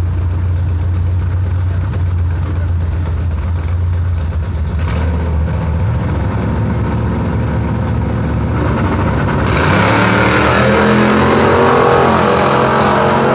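Drag-racing engines running at a low steady idle, then revving with rising pitch from about five seconds in, and turning much louder and harsher about nine and a half seconds in as they go to full throttle.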